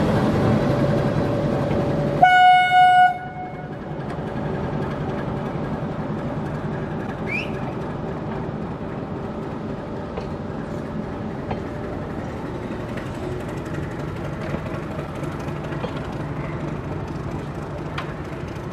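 Meter gauge passenger coaches rolling past with a steady wheel-on-rail noise and faint scattered clicks. About two seconds in, a train horn sounds once for about a second, the loudest sound here.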